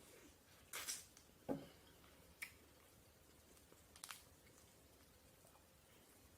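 Quiet eating sounds over near silence: a few soft clicks, a low knock and brief rustles from eating with a utensil, spread over the first four seconds.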